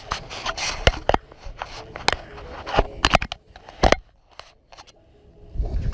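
Hand work on metal chimney flashing: a series of sharp clicks and scraping sounds, dying away to near quiet for a second or so near the end.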